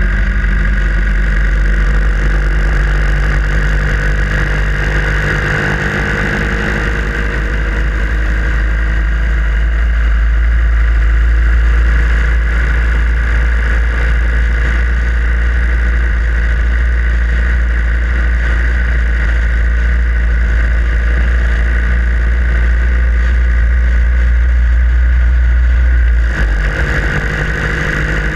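Harley-Davidson Sportster Iron 883's air-cooled V-twin engine running steadily while being ridden, under a strong low rumble. Near the end the low rumble drops away sharply and the engine note changes.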